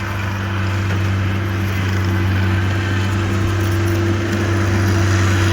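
Skid steer's diesel engine running steadily at a constant speed, a loud, unchanging engine note with no revving.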